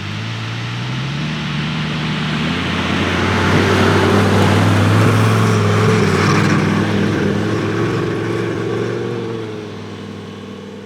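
2006 Lamborghini Gallardo's V10 engine running as the car drives, its note rising slightly and swelling to its loudest around the middle before dropping away near the end, over a steady hiss of tyres and wind.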